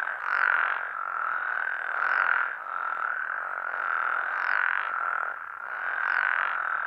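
Chorus of Great Basin spadefoot toads calling in sync, a dense continuous sound that swells together about every two seconds. The chorus is unbroken, the sign of a healthy, undisturbed population.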